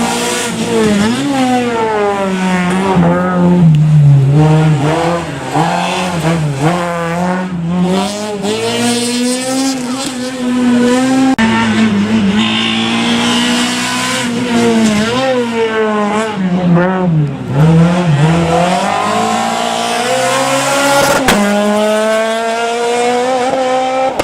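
Rally car engine revving hard, its pitch climbing and falling again and again as it is driven through a show stage, with tyre squeal.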